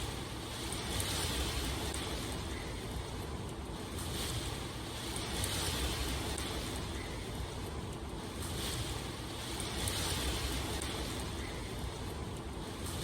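Steady rushing water noise that swells and eases every two to three seconds.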